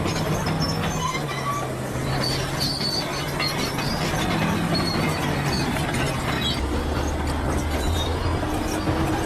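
Crawler bulldozer working: a steady diesel engine hum under a continuous clatter of steel tracks, with short high squeaks from the track running gear.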